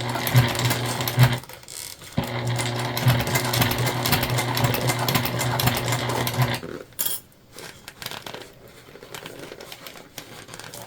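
Sewing machine stitching through vinyl binding layers in two steady runs, stopping briefly about a second and a half in and again just before seven seconds. A single click follows, then only faint handling sounds.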